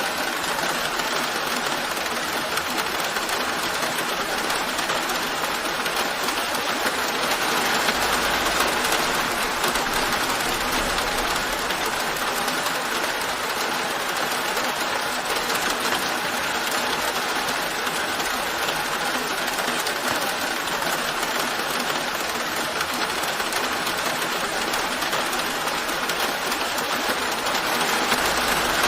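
Steady rain falling, a dense, even patter that does not change.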